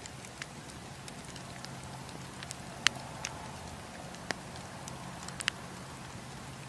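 Wood campfire crackling: scattered sharp pops and snaps, the loudest about three and four and a half seconds in, over a steady low rush of the flames.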